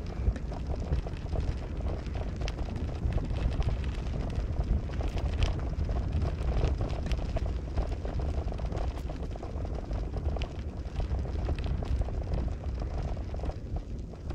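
Car driving: a steady low rumble of engine and road noise, with scattered small clicks and rattles.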